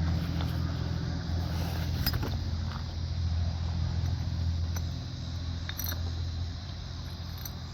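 A few faint clinks of glass bottles knocking together, over a steady low rumble.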